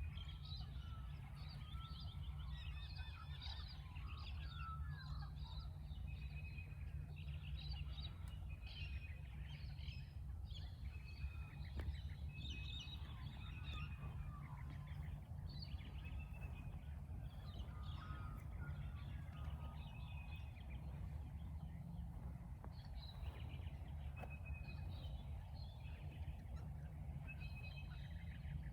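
A chorus of many birds calling at once: overlapping chirps, trills and short repeated whistled notes, over a steady low rumble.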